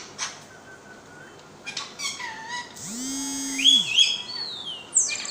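Pet parrot vocalizing: short squawks and chirps, a held buzzy note in the middle, then sliding whistles and a harsh squawk near the end.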